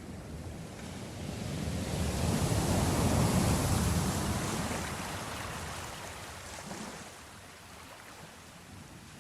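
Ocean surf: a wave rises, breaks about three seconds in, and washes out over the next few seconds.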